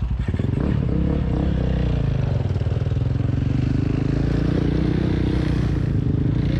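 Honda CRF230F dirt bike's single-cylinder four-stroke engine picking up from a low pulsing run about half a second in, then running steadily with small rises and falls in pitch as the bike rides along.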